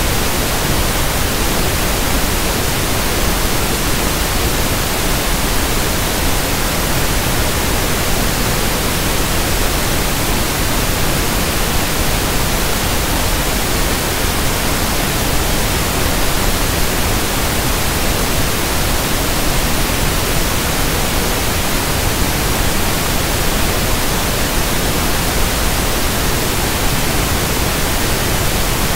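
Steady synthetic pink noise (1/f noise): an even, unchanging hiss spread across all pitches.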